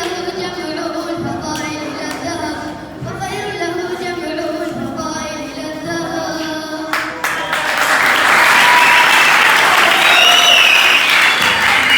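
A student's solo singing voice chanting a nasheed, then about seven and a half seconds in the audience breaks into loud applause that runs on.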